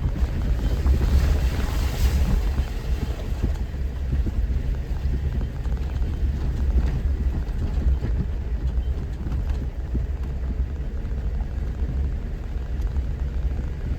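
Steady low rumble of a 4x4's engine and drivetrain as it crawls over a rough mountain trail, with a brief rise in noise about one to two seconds in.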